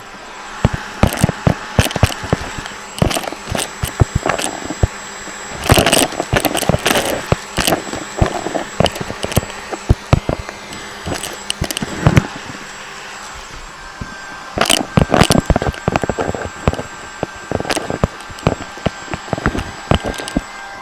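Irregular bursts of clicking, clattering and knocking, thickest in two clusters, one about six seconds in and one about fifteen seconds in, over a steady background hum.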